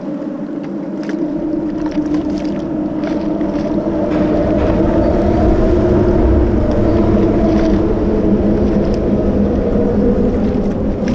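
A boat's motor running steadily, with a low rumble that grows louder about four seconds in.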